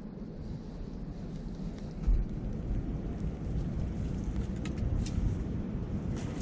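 Wood campfire crackling with scattered sharp pops, more frequent from about four seconds in, over a steady low rumble of wind on the microphone.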